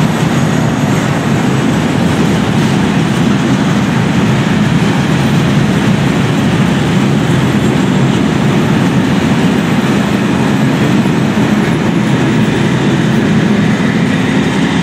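Wagons of a mixed freight train rolling past close by: a steady, loud noise of steel wheels running on the rails, with a light clickety-clack.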